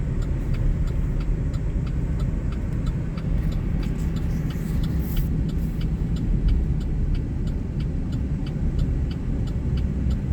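Steady road and engine rumble inside a moving vehicle's cab, with the hazard-light flasher ticking evenly at about three ticks a second.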